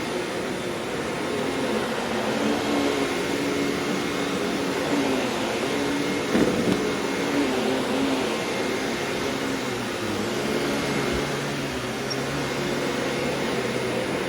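Simplicity 7 Series bagged upright vacuum cleaner running steadily, its brushroll on a freshly fitted belt, with a faint motor whine over the steady noise. A single short knock about six seconds in.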